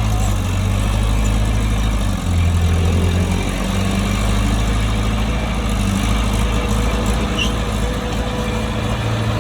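Heavy earthmoving machine's diesel engine running steadily, its note dropping lower for about a second from roughly two seconds in.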